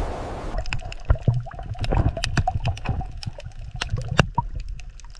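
Water splashing and gurgling in quick, irregular plops and drips, after a steady rushing noise cuts off about half a second in.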